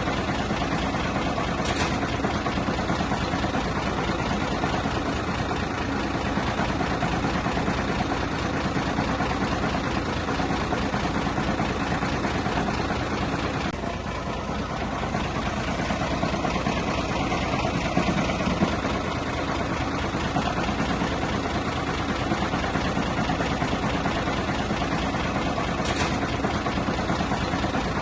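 Diesel engine of heavy earthmoving equipment running steadily, with a brief dip in level about halfway through and a short louder moment a few seconds later.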